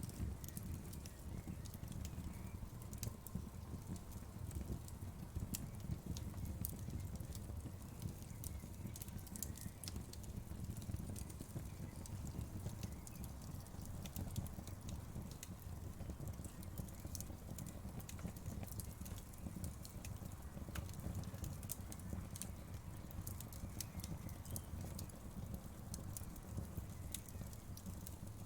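Wood fire crackling: a steady low noise of burning, with many small, sharp pops and snaps scattered irregularly throughout.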